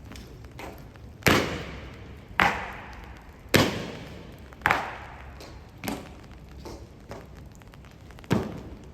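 Honor guards' ceremonial drill: sharp stamps or strikes land in a slow, steady beat about once a second, each followed by a short echo, with one weaker strike in between near the end.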